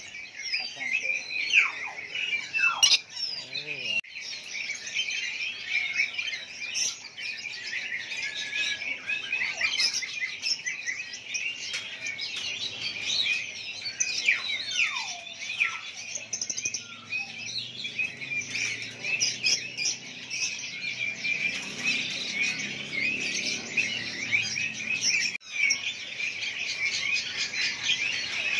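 Dense chorus of many caged songbirds chirping and calling over one another, a constant stream of overlapping high chirps and short whistled glides.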